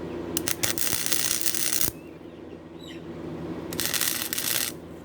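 Gasless flux-core wire welder arc crackling in two welds: a stuttering start and then about a second and a half of steady sizzle, and after a pause a second, shorter burst of about a second. A steady low hum lies under it throughout.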